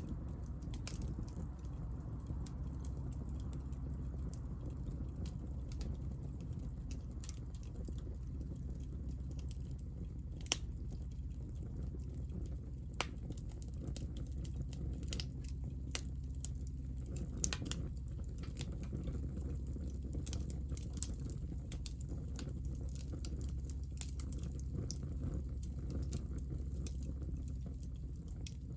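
Small fire of hinoki (Japanese cypress) wood offcuts crackling, with irregular sharp pops over a steady low rumble. A few louder pops stand out through the middle.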